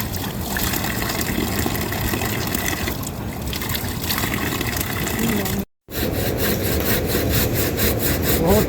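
Steady rush of heavy rain and running water. After a brief cut a little past halfway, quick rhythmic rasping strokes come in, several a second.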